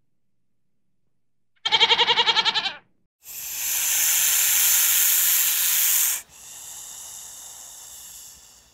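A goat gives one quavering bleat lasting about a second, then a snake hisses loudly for about three seconds, stops abruptly, and follows with a weaker, longer hiss.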